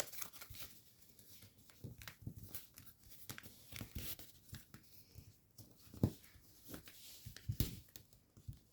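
A sheet of paper rustling and crinkling as it is folded and creased by hand, in short, scattered bursts. The sharpest crackle comes about six seconds in.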